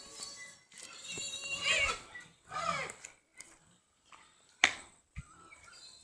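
Animal calls: two wavering, bending cries, the first about a second long and the second shorter, then two short sharp knocks near the end.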